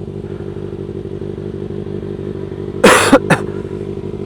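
Motorcycle engine running at a steady pitch while riding. About three seconds in, two loud short bursts cut across it, the first with a falling pitch.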